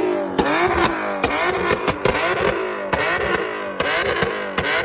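Car engine free-revved over and over, its pitch climbing and falling back about once a second, with sharp exhaust pops and cracks between the revs.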